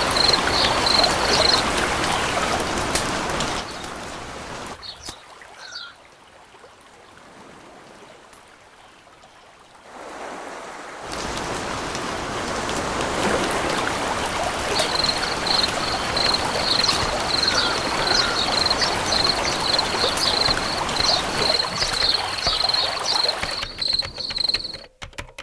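Running water with a shrill insect trill, typical of a cricket, pulsing at one high pitch. The trill drops out early, and the water fades to a quiet stretch before returning. The trill comes back about halfway through and runs until the sound cuts off near the end.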